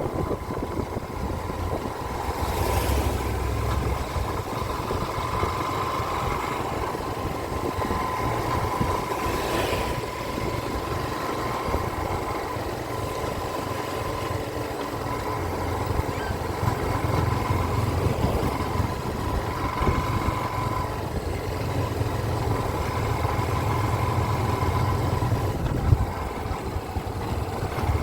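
Small-displacement motorcycle engine running steadily.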